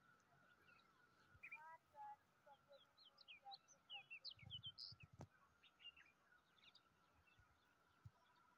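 Faint birdsong: small birds giving a burst of quick chirps and short whistled notes through the middle, over a faint steady high tone. A few soft low thumps come in the middle.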